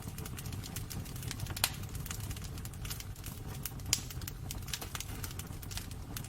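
Wood fire burning in a fireplace: dense crackling over a steady low rumble, with two louder pops about one and a half and four seconds in.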